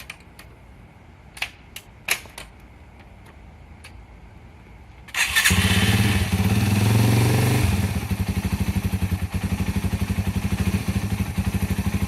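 A few sharp clicks, then the 2001 Yamaha XT225's single-cylinder four-stroke engine fires about five seconds in on a cold start with the choke out. It runs fast for a couple of seconds, then settles into an even, pulsing idle.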